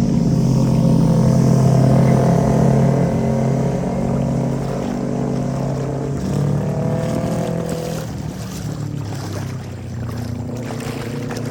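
A large engine running steadily, easing off somewhat about eight seconds in.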